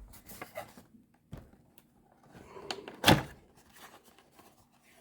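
A cardboard figure box being handled: light rustling and taps, then one loud knock about three seconds in as it is bumped or set down.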